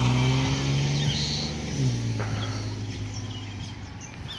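A few short, high bird chirps, the alarm calls of an agitated mother bird, over the steady hum of a vehicle engine that fades away.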